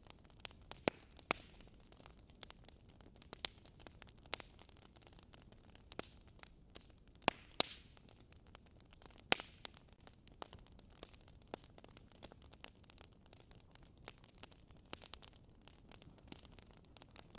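Wood fire in a fireplace crackling: sharp pops and snaps at irregular intervals over a faint steady hiss, the loudest pops about a second in and again near the middle.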